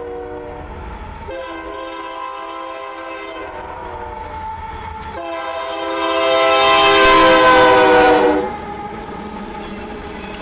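Freight locomotive air horn sounding long blasts. The last blast, about five seconds in, is the loudest and drops in pitch as the locomotive passes, then cuts off, leaving the rumble of the train rolling by.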